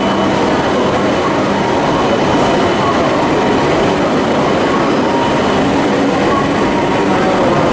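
Shinkansen train moving along a station platform, a steady loud rumble with a faint whine.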